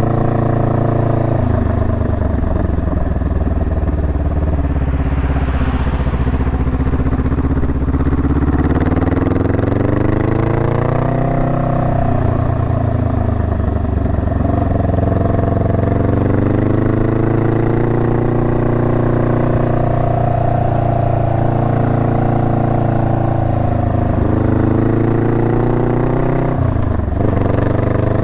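Honda Rebel 500's parallel-twin engine running on the road, its pitch falling and rising as the throttle is eased off and opened again. Near the end there is a brief sharp dip and recovery.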